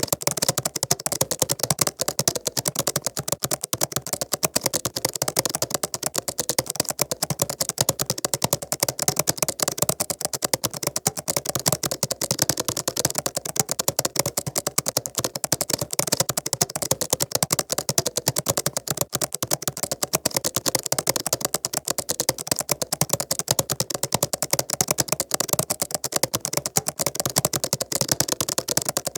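Computer keyboard typing: a fast, unbroken run of key clicks.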